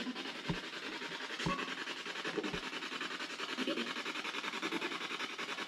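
Hissing static that pulses evenly about eight to ten times a second, typical of a spirit box sweeping through radio stations while its answers are awaited. Three soft low knocks sound within the first three seconds.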